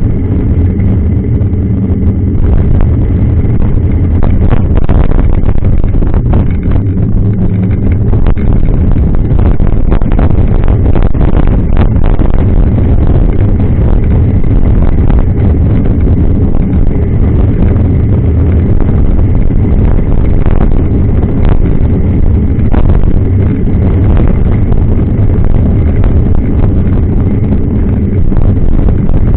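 Loud, steady wind and riding rumble on a mountain-bike action camera's microphone, with frequent small knocks and rattles from the bike over rough ground.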